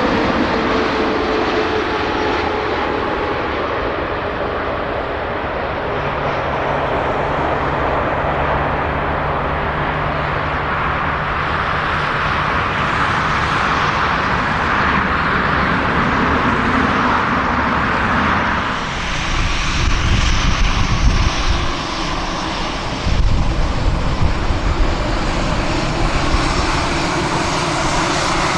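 Jet airliner engines running loudly, a steady roar with a faint falling tone at the start. About two-thirds of the way through, the sound changes to low, uneven rumbling in two spells.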